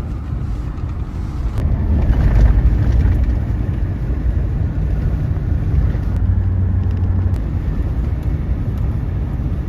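Road noise inside a moving vehicle: a steady low rumble of engine and tyres at highway speed, swelling slightly around two seconds in.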